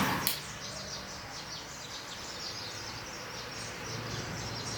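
Small birds chirping over a quiet background hum, with a single sharp click just after the start.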